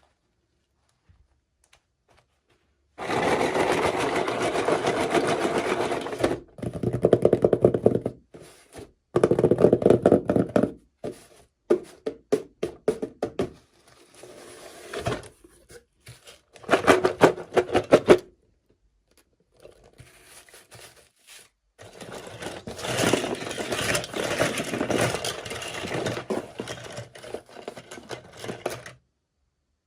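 Toy packaging being opened and handled: bursts of rustling and rapid clicking and scraping, starting about three seconds in and broken by short pauses.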